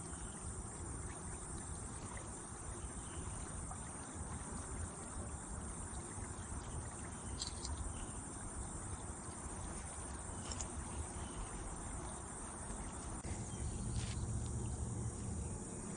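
Steady outdoor chorus of insects, with a low wash of running creek water beneath it. A few short sharp ticks break through, and the low water noise swells about thirteen seconds in.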